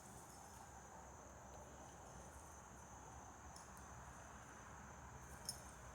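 Near silence with a faint, steady high-pitched trill of crickets, and one small click near the end.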